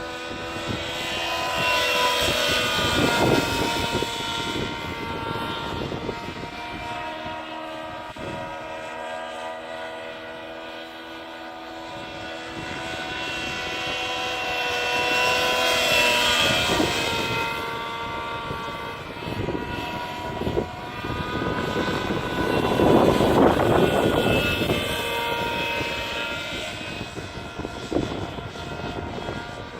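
Nitro-engined RC 3D helicopter (SAB Goblin Black Nitro) in flight: the engine's high whine and the rotor buzz rise and fall in pitch and loudness as it manoeuvres and passes, loudest about two to four seconds in, around sixteen seconds and around twenty-three seconds.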